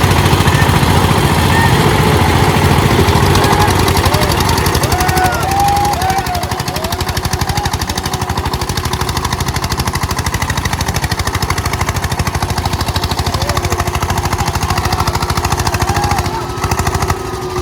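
Eicher 241 tractors' single-cylinder diesel engines running hard in a rapid, steady stream of thudding exhaust beats, as in a tractor tug-of-war pull. The sound is louder for about the first six seconds, then eases slightly.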